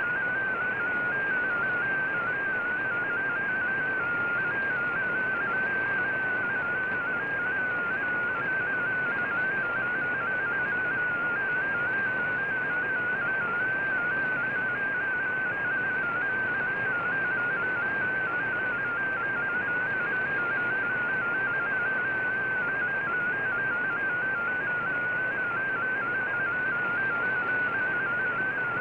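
Shortwave digital-mode data signal from the VOA Radiogram, a narrow warbling tone that hops rapidly between closely spaced pitches, typical of MFSK text transmission. It sits over steady shortwave band hiss heard through the receiver's audio.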